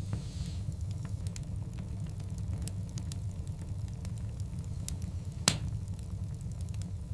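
Log fire burning: a steady low rumble of the flames with scattered sharp crackles, and one loud pop about five and a half seconds in.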